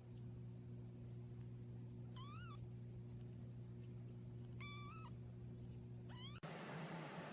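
A cat meowing three times, short calls that rise and fall in pitch, over a steady low hum.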